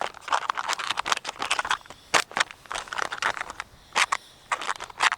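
Irregular crinkling and rustling of a foil freeze-dried meal pouch being handled and closed after hot water has been poured in.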